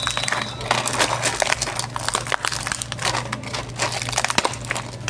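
Plastic packaging being handled, crinkling and crackling in quick irregular clicks.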